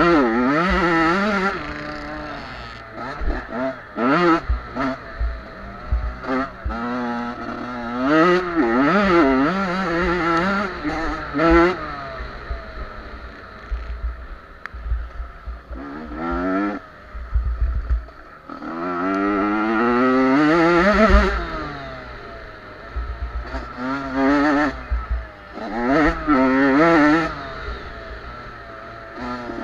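Small two-stroke junior motocross bikes revving hard, their engine notes climbing and dropping again and again as they are throttled through the track. The loudest one passes close about twenty seconds in, rising and then falling in pitch as it goes by.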